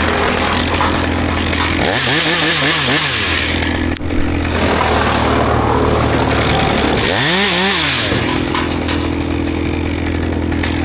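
Chainsaw running and cutting into cherry wood, revved up and back down twice, about two seconds in and again about seven seconds in, settling to a steady idle near the end.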